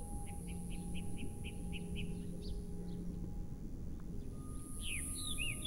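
Birds chirping: a quick run of short high chirps, about four a second, then a few swooping calls near the end, over a faint steady background hum.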